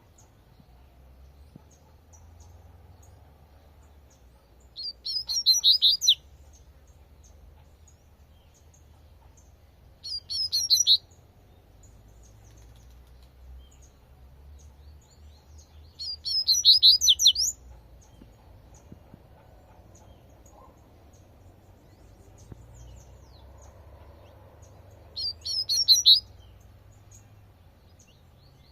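Double-collared seedeater (coleirinho) singing its 'tui-tui' song: four short phrases of rapid high notes, each about a second long, several seconds apart, over a low steady background rumble.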